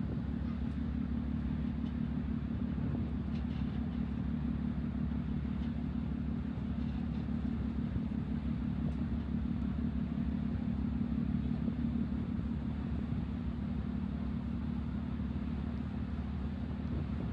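Steady low engine rumble, even and unbroken, with no change in pace.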